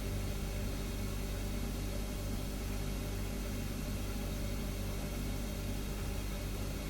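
Refrigerator humming steadily: a low, even hum with a faint hiss above it.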